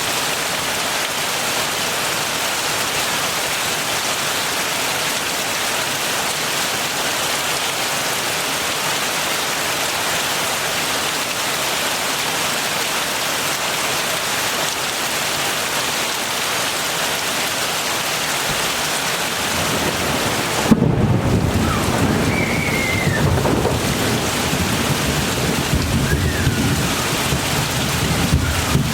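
Heavy rain falling in a steady, dense hiss. About two-thirds of the way in, a sudden thunderclap breaks in and rolls on as a low rumble under the rain.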